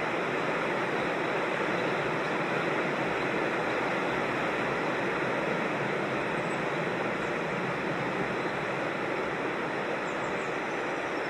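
Creek water rushing steadily over rocks, an even unbroken rush.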